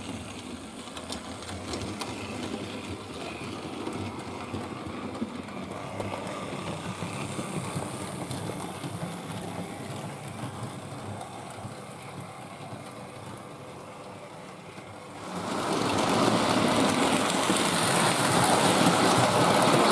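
Hornby Dublo 3-rail model tank locomotive running on the track, a steady whir of its small electric motor and wheels on the rails. About three-quarters of the way through it becomes much louder and brighter and stays so.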